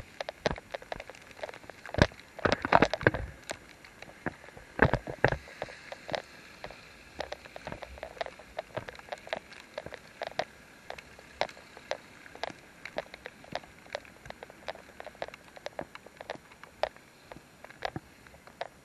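Rain pattering: irregular drops tapping close by, with a few heavier clusters of hits early on.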